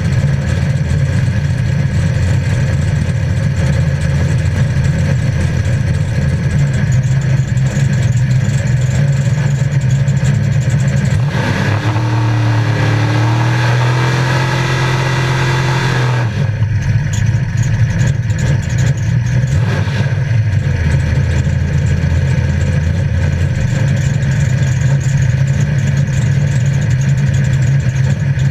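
Engine of an 850 hp 1968 Pontiac Firebird drag car, heard loud from inside the cabin, running at a steady rumbling idle. About eleven seconds in it revs up in a few rising steps for some five seconds, then drops back to idle.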